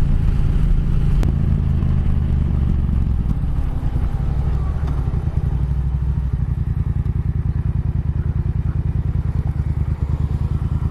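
Motorcycle engine running while riding, then from about halfway dropping to idle, its firing pulses heard one by one as a regular pulsing.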